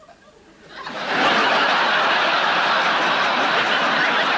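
A large theatre audience laughing. The laughter swells in about a second in and then holds steady and loud.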